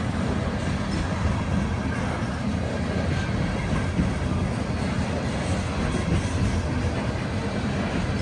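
Loaded coal train passing, a steady unbroken noise of the cars on the rails as it climbs the grade.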